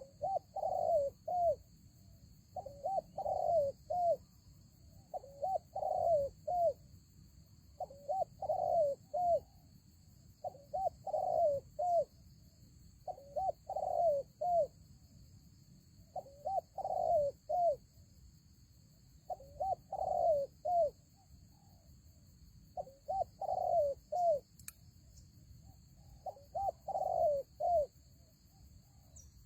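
Spotted dove cooing: a three- to four-note phrase repeated about every two and a half seconds.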